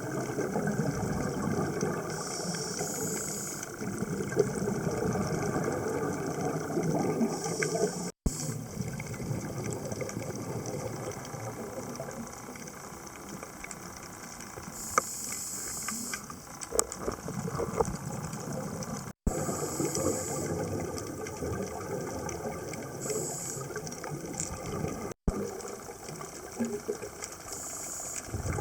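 Muffled underwater sound from a dive camera, with a scuba diver's exhaled bubbles hissing out in bursts every few seconds. It drops out abruptly three times where the clips are joined.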